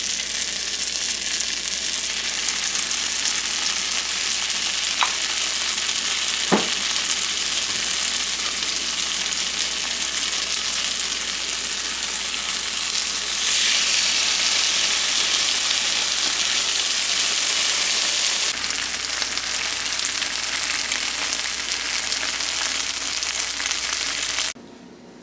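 Food frying in a hot pan, a steady sizzling hiss that grows louder for a few seconds midway, with two faint clicks in the first third. It cuts off suddenly near the end.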